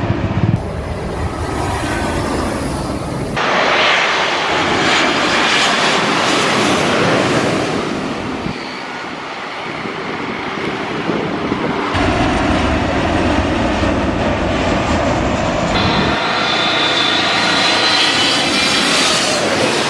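Jet airliner engines running loud, in several segments that change abruptly every few seconds; in the last few seconds a high engine whine slowly shifts in pitch.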